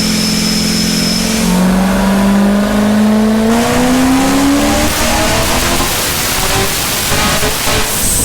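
Supercharged Chevrolet Corvette C6 V8 running on a chassis dyno: it holds steady with a high whine for about a second, then climbs in revs under load, its pitch rising steadily for several seconds before turning into a harsher, noisier roar near the top of the pull.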